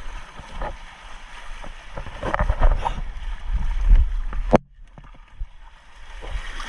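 Wind rumbling on the microphone over water sloshing around rocks, louder in the middle, with a sharp knock about four and a half seconds in, after which it quietens.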